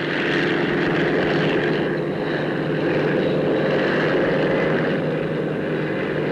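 Westland Wessex helicopter in flight: a steady, unbroken engine and rotor noise.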